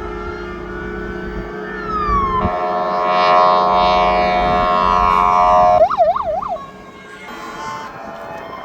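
Fire engine sirens from a passing convoy: a slow wailing siren over engine rumble, then a loud steady horn blast lasting about three seconds, then a few quick yelping siren sweeps before it quietens.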